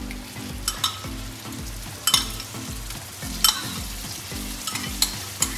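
Chicken sizzling in ghee on a flat tawa griddle as yogurt is stirred in. A spatula clicks and scrapes against the griddle about every second and a half.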